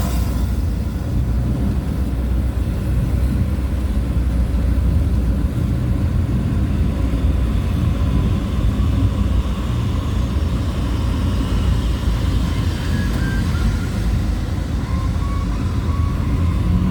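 Motor vehicle driving along at a steady speed: a continuous low engine and road rumble.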